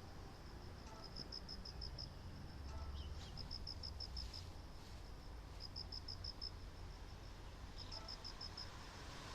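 Insect chirping: short trains of about seven rapid, high pulses, repeating roughly every two seconds, over a faint low steady rumble.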